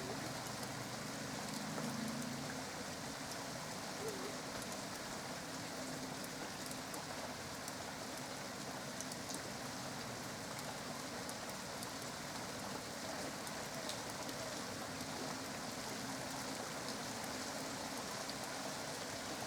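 Steady rain falling, with scattered light drip ticks.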